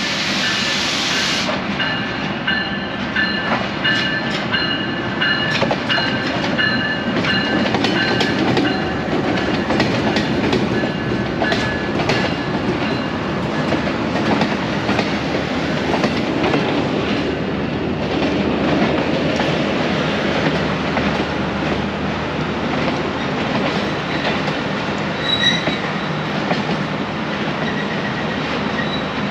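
Passenger train rolling through the station, with a steady rumble and the clickety-clack of wheels over rail joints. A high, steady squeal runs through about the first twelve seconds, then fades.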